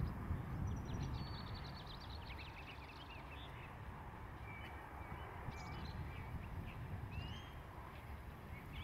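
Small birds chirping again and again, in quick high runs and short sliding calls, over a steady low outdoor rumble.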